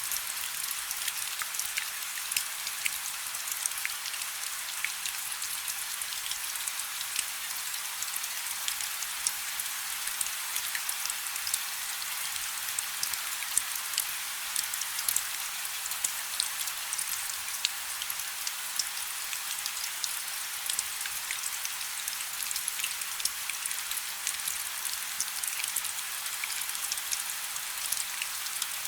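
Steady rain falling on a river's surface: a dense, even hiss with many small, sharp drop ticks scattered through it.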